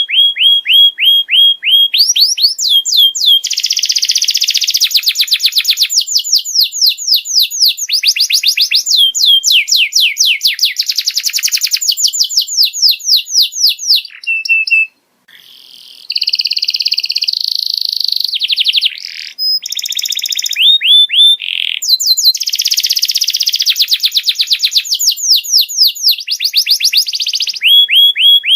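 Domestic canary singing a long, high-pitched song of fast trills, rapid repeated notes and sweeping whistles, with a brief pause about halfway through.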